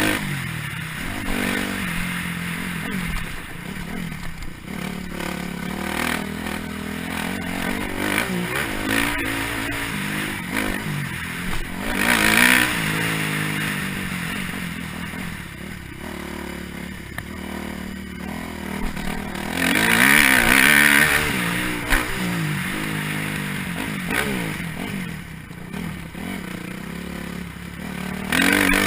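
Dirt bike engine revving up and falling back over and over as it is ridden, with rattling and clatter from the bike. It swells loudest twice, about twelve and twenty seconds in.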